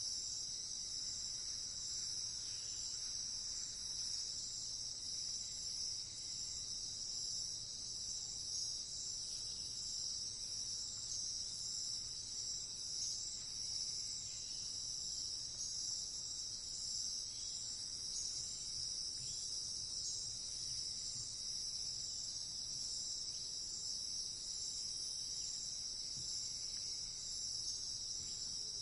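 Crickets chirring steadily in a dense, high-pitched night chorus.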